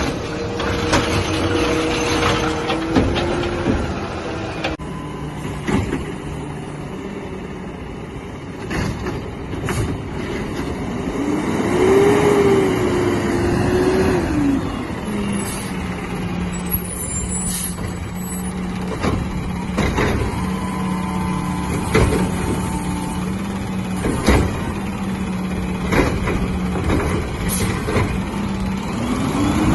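Side-loader refuse truck running, its diesel engine with a tone that rises and falls about twelve seconds in, then settles to a steady hum, with sharp knocks every couple of seconds.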